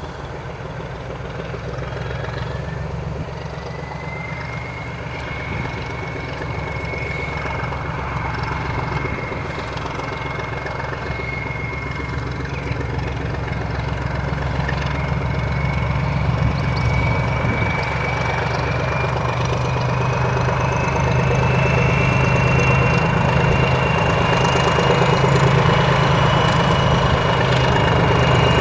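Diesel locomotive engine running under power with a deep rumble and a high whistle that slowly rises in pitch, growing steadily louder throughout.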